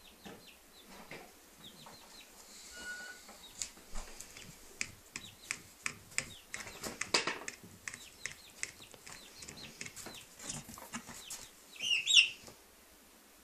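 A bird making a run of short clicks and clucking calls, with a louder squawk about twelve seconds in.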